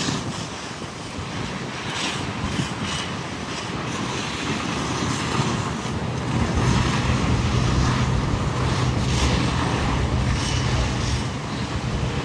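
A large vehicle's engine running close by over wind noise, with a low steady hum that grows louder about six seconds in.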